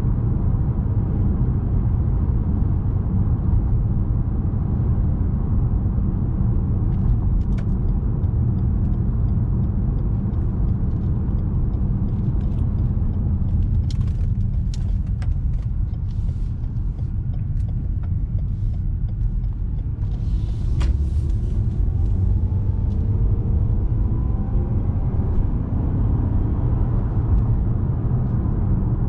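2017 Lexus RX 200t with its 2.0 L turbocharged four-cylinder (8AR-FTS) driving in city traffic: a steady low rumble of engine and road noise. Scattered short clicks come through the middle, a brief hiss about two-thirds of the way in, and faint rising tones near the end.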